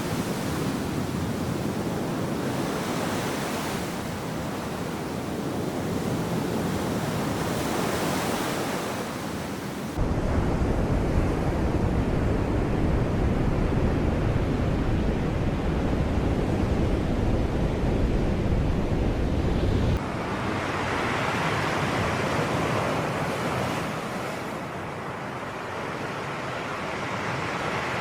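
Sea waves washing and breaking in slow surges. About ten seconds in, a louder, deeper rumble takes over and the hiss drops away; ten seconds later it cuts off just as suddenly and the surf returns.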